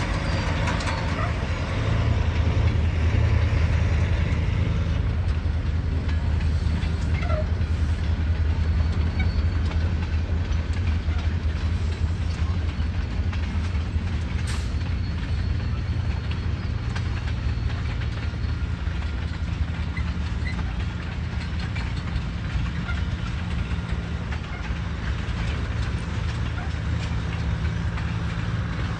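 Diesel engine of a 2005 Peterbilt tandem-axle truck idling steadily, with a single sharp click about halfway through.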